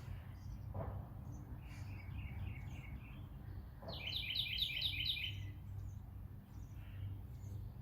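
Wild birds singing: a bird's song of quick repeated high notes about four seconds in, with scattered shorter chirps earlier, over a steady low background rumble.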